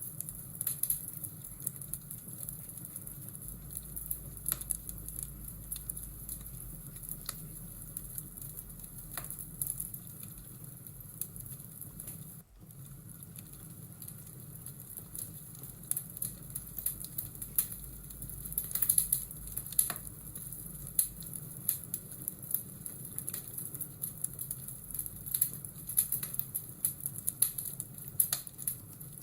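Fireplace ambience: a wood fire crackling with irregular pops and snaps over a steady low rush, with a brief dropout about twelve seconds in.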